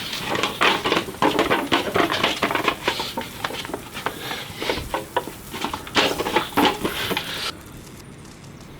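A dense, irregular run of clattering knocks and scuffs that cuts off abruptly about seven and a half seconds in.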